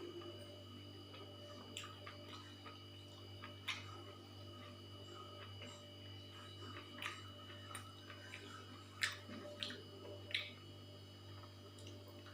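Faint eating sounds: scattered soft wet clicks and smacks of chewing, the loudest about nine seconds in, over a steady low electrical hum.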